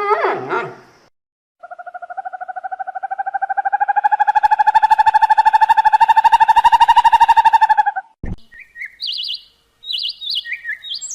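A bird calls one long whistled note with a rapid flutter in it, held for about six seconds and rising slightly. A click follows, then a run of short, high chirps.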